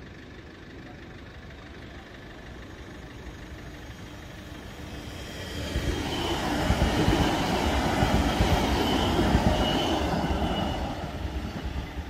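A train passing over the level crossing: its noise builds from about four seconds in, stays loud for around five seconds, then fades away near the end.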